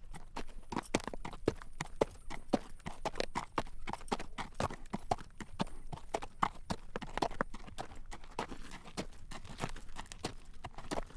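Horse's hooves clip-clopping on a road at a walk as it draws a carriage, a steady stream of sharp clacks, several a second.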